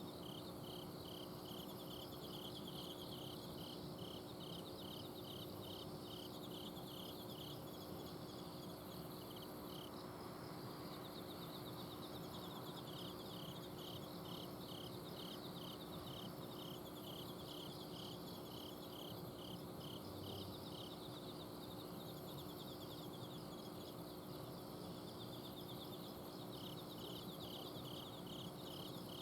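Night chorus of autumn crickets and other insects: one chirps in a regular pulse about twice a second, pausing briefly about ten seconds in, over continuous higher trills. Beneath them runs the steady hum of an air-conditioner outdoor unit.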